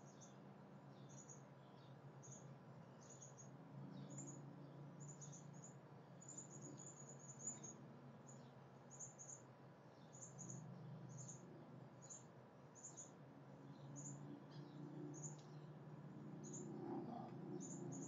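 Faint, high-pitched bird chirps repeating about once or twice a second, over a low steady background hum.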